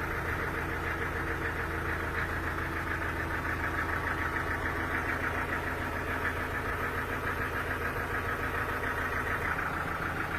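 An engine-driven machine, likely sawmill machinery, running steadily with a low hum and a fast, even pulsing that does not change.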